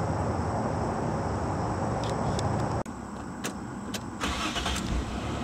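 1997 Nissan Maxima's V6 engine running steadily. It cuts off abruptly, then come a few clicks and a low surge about four seconds in as the engine is cranked and starts.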